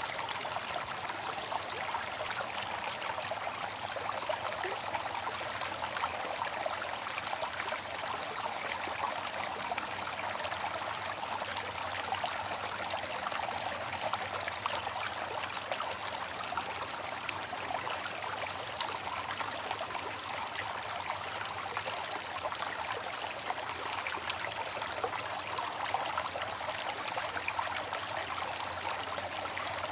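Water fountain splashing and trickling in a steady, unbroken flow.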